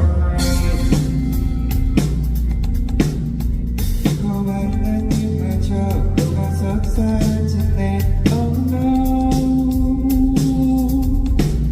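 Live band playing a pop-rock song through a concert PA: a steady drum beat with bass and guitar, and singing over it.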